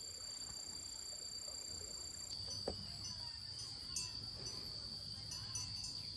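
Insects trilling in a steady, high-pitched continuous tone; a second, higher trill drops out about a third of the way in. A couple of faint knocks are heard.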